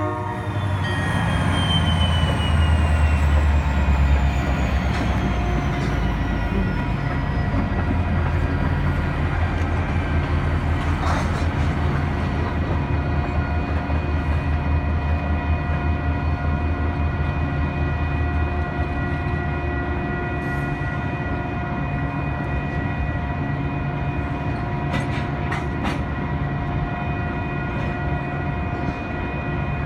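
Canadian National freight train passing close by. The diesel locomotive's deep engine rumble is loudest in the first few seconds, then eases into the steady rolling of tank cars on the rails. A steady ringing tone runs over it throughout.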